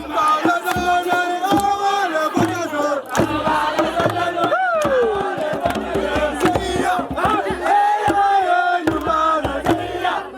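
A crowd of young voices chanting and singing together in held notes over sharp beats, in the manner of a campfire song. About halfway through, one voice rises and then slides down in pitch.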